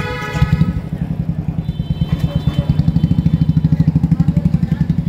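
Motorcycle engine idling close by: a steady, even thudding of about eight or nine beats a second.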